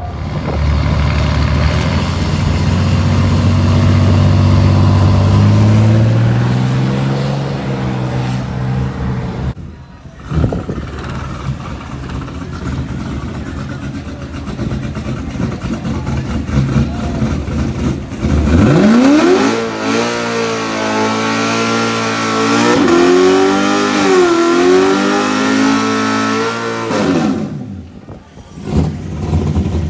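Drag-racing truck engines under full throttle. First one engine runs up, its pitch climbing steadily for several seconds. After a sudden break, another engine revs sharply up and holds at high revs, its pitch wavering, for about eight seconds.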